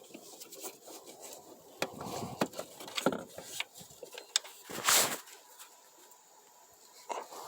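Hands working on spark plug wires under the hood of a switched-off engine: scattered light clicks, rubbing and scraping, with one louder scrape about five seconds in.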